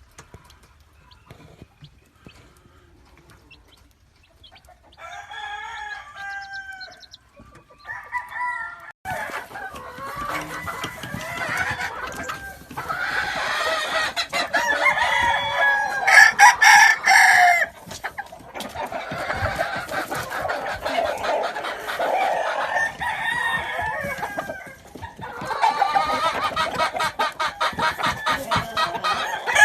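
Several gamefowl roosters crowing and clucking, their calls overlapping. The first few seconds are fairly quiet, with scattered calls from about five seconds in. From about nine seconds the crowing becomes a continuous din, loudest a little past the middle, with a brief lull near the end before it picks up again.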